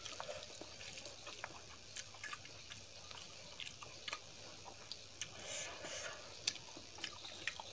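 Close-up mouth sounds of eating rice and dal: soft chewing and lip smacks, with scattered small wet clicks.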